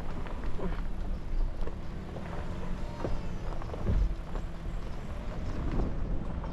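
A 4x4 driving slowly over a rough dirt track: a steady low rumble of engine and tyres, with repeated knocks and rattles as it bumps over the ruts.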